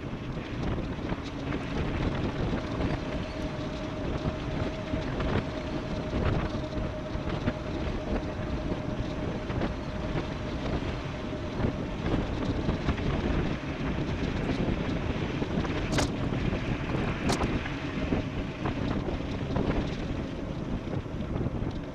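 Wind buffeting the microphone and rolling tyre noise from an e-bike descending at speed, with a faint steady whine through the first half and two sharp clicks a little over a second apart about two-thirds of the way in.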